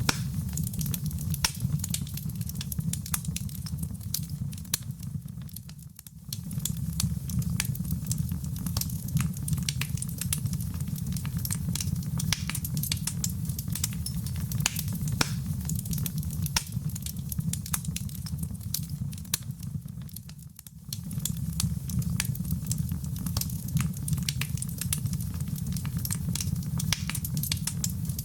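Wood fire in a fireplace crackling, with dense sharp pops over a steady low rumble of burning. The fire sound fades down briefly and comes back twice, about six seconds in and again about twenty seconds in.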